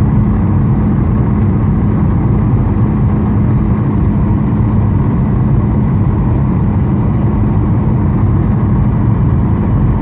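Cabin noise of a Boeing 737-800: steady engine and airflow noise with a steady low hum, starting suddenly at the cut.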